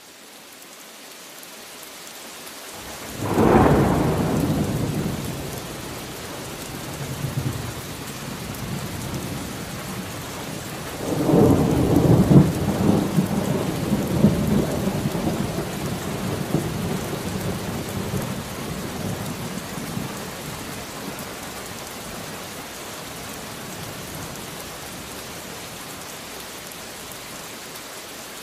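Steady rain with thunder: a sharp thunderclap a few seconds in that rumbles away, then a longer rolling peal of thunder around the middle, leaving rain alone near the end. The rain fades in at the start.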